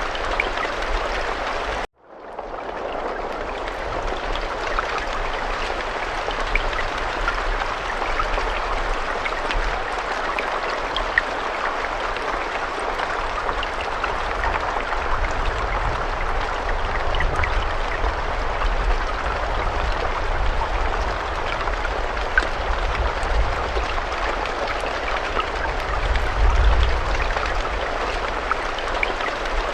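Steady rain falling: a dense hiss with scattered ticks of single drops over a low rumble. About two seconds in it cuts out abruptly for a moment, then fades back up.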